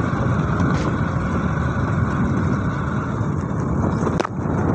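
Motorcycle engine idling steadily close by, with a single short click about four seconds in.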